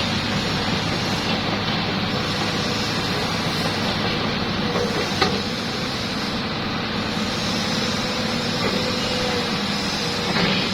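Hitachi ZX200 excavator's diesel engine running steadily, with one sharp click about five seconds in.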